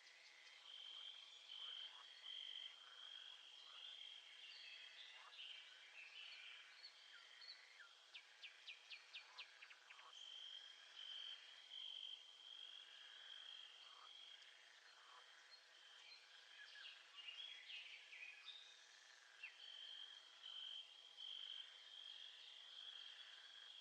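Faint nature ambience: birds chirping and calling, with a high steady trill that comes and goes in stretches of a few seconds.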